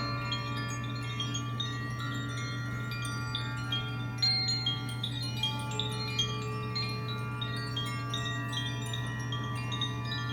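Chimes tinkling continuously, many small overlapping strikes ringing high and bright, over a steady low drone.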